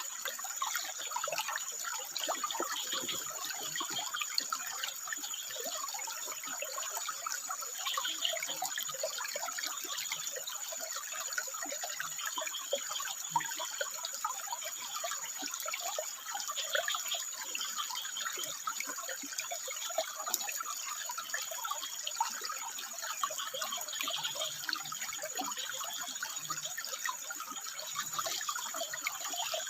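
Stream water trickling and splashing over rocks, a steady, busy babble, with a thin steady high-pitched tone running along above it.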